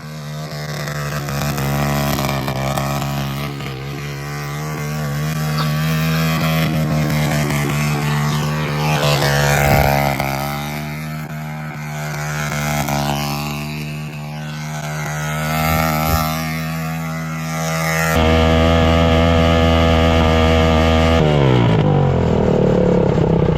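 Quad (ATV) engine running steadily in gear at about the same speed, its pitch falling away over the last couple of seconds as it slows.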